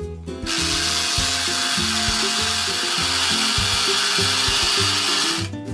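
Battery-powered toy blender motor running with a steady whirring buzz, starting about half a second in and stopping just before the end, with light children's background music underneath.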